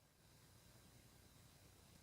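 Near silence: a pause between bird song phrases, with only faint recording hiss.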